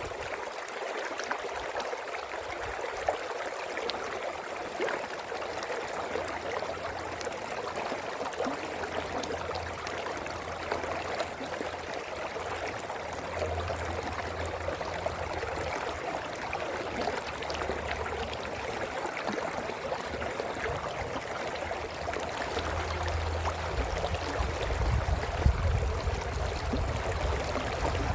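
Brook babbling steadily over rocks. A faint low rumble comes and goes underneath, strongest near the end.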